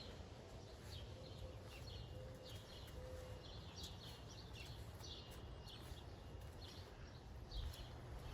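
Small birds chirping over a faint outdoor background, with short high calls repeating about once or twice a second.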